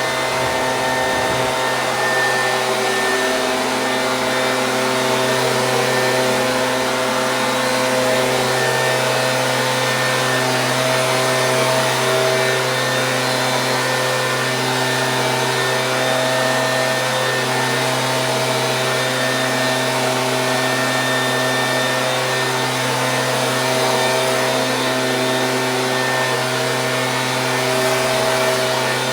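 Stihl BG 86 handheld leaf blower, a two-stroke engine driving a fan, running steadily at constant speed with an even hum over the rush of air.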